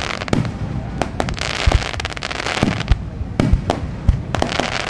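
Fireworks display: aerial shells bursting in quick succession, several deep booms among many sharp cracks.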